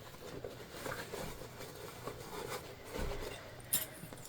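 Faint handling noise of jelly vinyl and bias tape binding being wrapped and held by hand: soft rustles and small ticks, a low thump about three seconds in and a sharp click just after.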